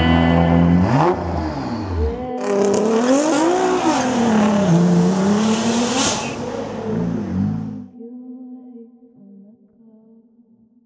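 Nissan GT-R Alpha 9's twin-turbo V6 revving hard, its pitch climbing, falling and climbing again through several surges, with a sharp break about two seconds in. The engine sound dies away about eight seconds in.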